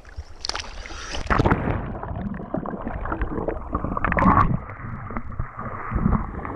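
A kayak capsizing for a roll: splashing in the first second and a half, then muffled rushing and gurgling water as the microphone goes underwater.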